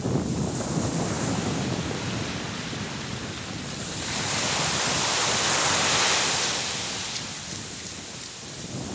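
Ocean surf on a beach, with wind rumbling on the microphone. About four seconds in, a wave washes up louder with a rising hiss, then fades away over the next few seconds.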